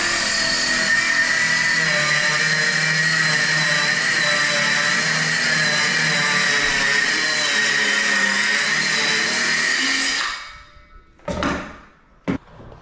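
Handheld circular saw ripping through an MDF board with a steady, high whine that stops about ten seconds in. Two short knocks follow near the end.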